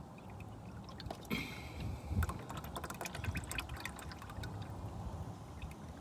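Warm, thin engine oil pouring and trickling out of a lawn mower engine's drain hole into an oil pan.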